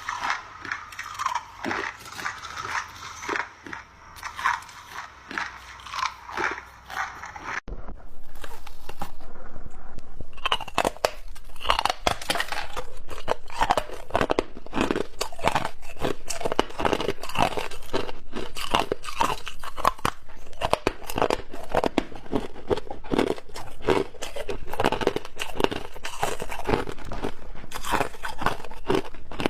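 Clear ice chunks being bitten and chewed, a run of crisp crunches. For the first eight seconds or so the crunches come about two a second, then they suddenly turn louder and denser, close-up crunching without a break.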